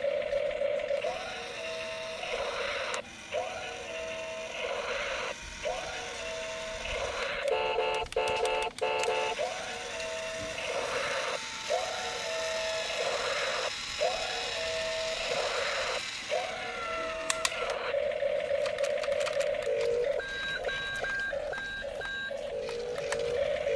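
A toy's electronic sound chip plays a repeating pattern of beeping tones, about one phrase every one and a half seconds, over a steady buzzing tone. A quicker run of beeps comes about eight seconds in, and more beeping follows near the end.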